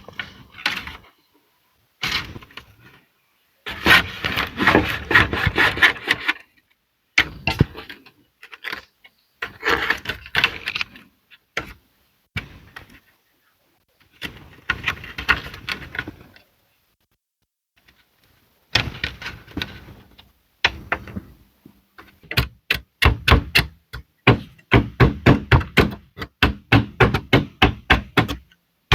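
A hand tool striking wood in bursts with short pauses between them. Near the end it settles into a steady run of sharp strikes, about two or three a second.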